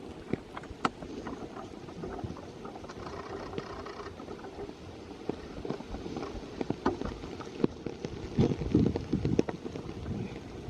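Steady rain with drops ticking irregularly on nearby surfaces, and the rustle and crunch of someone walking through wet forest undergrowth, louder and busier about eight seconds in.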